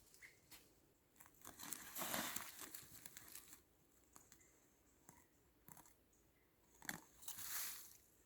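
Faint crunching and rustling, with scattered small clicks and two longer bursts, about two seconds in and again about seven seconds in.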